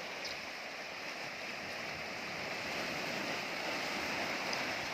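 Sea surf washing steadily against the shore, with some wind on the microphone; it swells slightly about halfway through.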